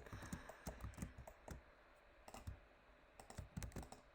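Computer keyboard keystrokes and mouse clicks, faint and irregular, in a cluster in the first second and a half and another about three seconds in.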